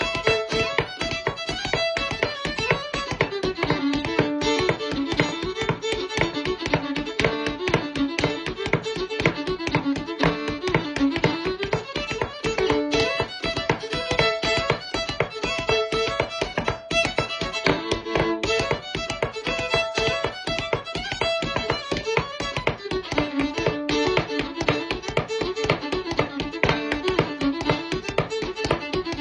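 Solo fiddle playing a lively Métis fiddle tune, a fast melody that winds up and down. Even taps keep a steady beat underneath.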